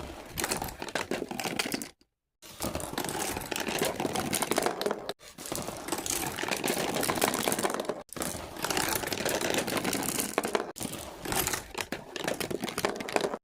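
Crinkling, rustling handling noise with many small clicks, in several stretches that cut off abruptly between them.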